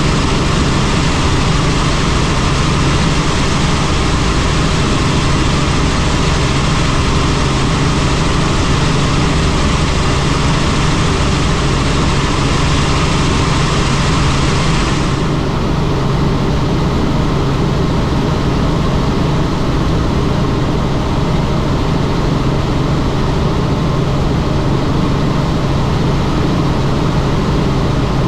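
Helicopter engine and rotor noise: a steady loud drone with a strong low hum under a dense rushing noise, turning duller about halfway through.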